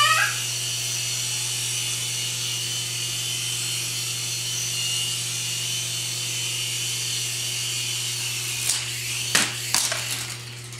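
Small remote-control toy helicopter's electric motor and rotors whining steadily. A few sharp knocks come near the end, and the whine drops away just before the end.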